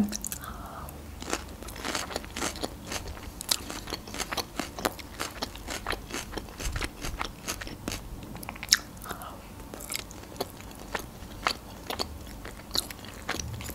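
Close-miked chewing of a mouthful of Caesar salad made with Napa cabbage, with many short, irregular crisp crunches and wet mouth sounds.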